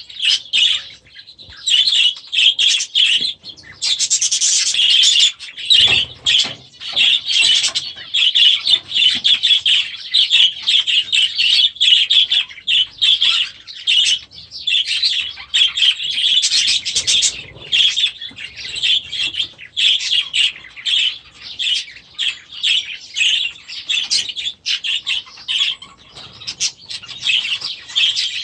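A flock of budgerigars chattering: a continuous jumble of rapid chirps and warbles. A brief thump sounds about six seconds in.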